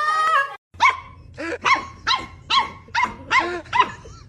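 A dog barking over and over, about two barks a second, starting just under a second in after a short pitched sound cuts off.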